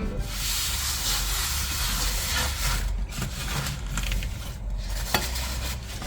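Food sizzling in a frying pan, a steady hiss with a couple of light utensil knocks.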